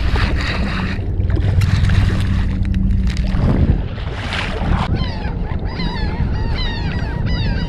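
Wind and water noise rushing over the microphone. From about five seconds in, a flock of birds calls continuously: many short falling calls, several a second, overlapping.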